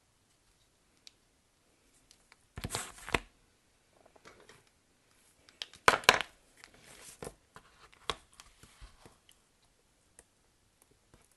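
Soap packaging being handled and opened by hand: a short rustling burst, then a louder, sharper burst about six seconds in, with small taps and rustles between.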